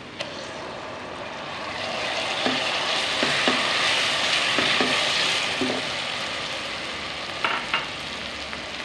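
Chopped tomatoes and spices hitting hot mustard oil and onions in a steel pot, setting off a loud sizzle that swells over a couple of seconds and then slowly dies down. A spatula stirs through it, with a few short scraping strokes.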